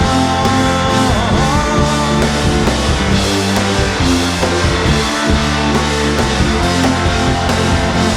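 Live rock band playing an instrumental passage with no vocals: guitar lines, one note bending about a second in, over bass and drums.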